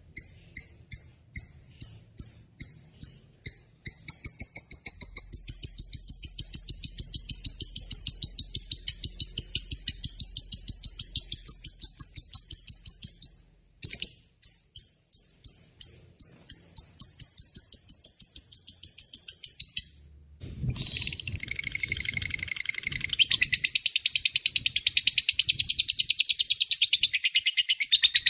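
Lovebird giving its long, rapid chattering song ('ngekek panjang'): fast runs of shrill repeated notes, several a second. It breaks off briefly twice and resumes, denser and fuller after the second break.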